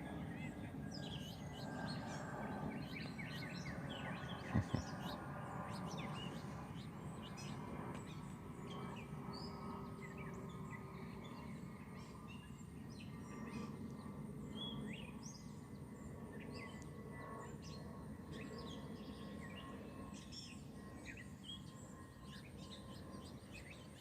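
Many small songbirds chirping and twittering at a bird feeder over a steady low background hum, with one short knock about four and a half seconds in.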